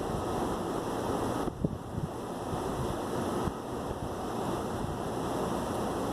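Steady rain falling during a light thunderstorm, an even hiss, with a few sharp drops tapping close by.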